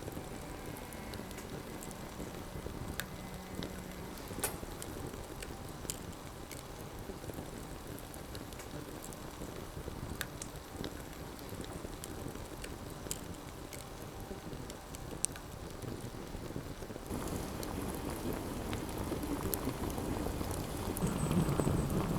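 Rain falling steadily with scattered sharp pops. It grows heavier about seventeen seconds in, with a low rumble near the end.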